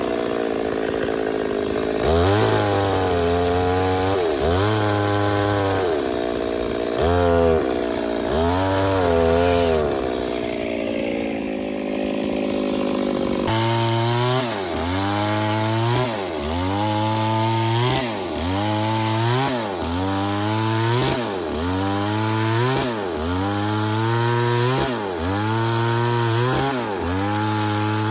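Chainsaw cutting wood under load, its engine pitch dipping and recovering over and over. The dips are irregular at first and settle to about one a second after about halfway.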